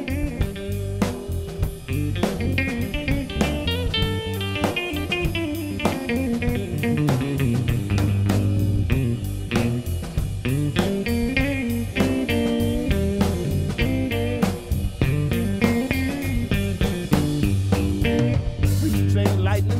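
Blues band playing an instrumental break: a guitar lead with bending notes over electric bass and a drum kit keeping a steady beat.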